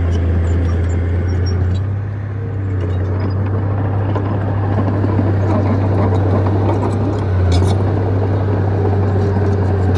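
Bulldozer's diesel engine running under load with a deep, steady drone, easing off briefly about two seconds in and surging again about seven seconds in, with scattered light clicks over it.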